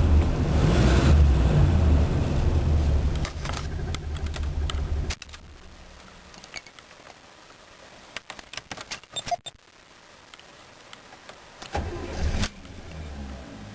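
1985 Chevrolet Caprice Classic's 305 cubic-inch V8 running with a heavy low rumble, then shut off abruptly about five seconds in. The owner says the engine has bad valves. Scattered light clicks follow, and a short burst of engine sound comes near the end.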